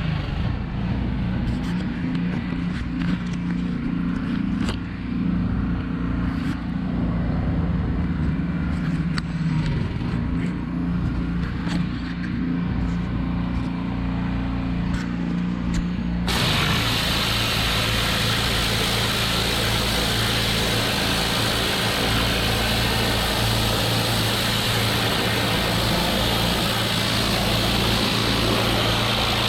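Gas-engine pressure washer running steadily under load, a constant engine drone. About 16 seconds in, a loud steady hiss joins it.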